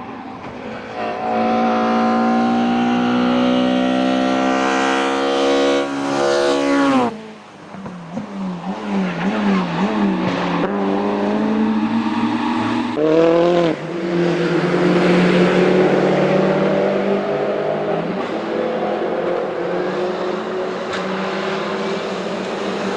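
Race car engine on a hill climb, accelerating hard with the pitch climbing for several seconds, then cutting off sharply about seven seconds in. The note wavers low, rises in a brief rev about thirteen seconds in, then pulls steadily again under load.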